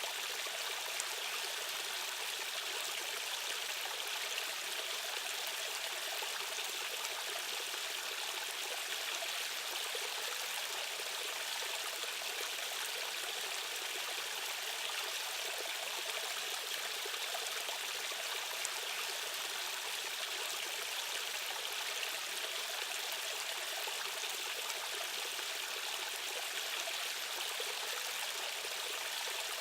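Stream water running over rocks: a steady, even rushing.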